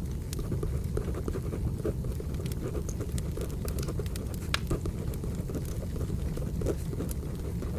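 Firewood burning with a steady low rumble and scattered sharp crackles and pops, overlaid with the scratching of a pencil writing on paper.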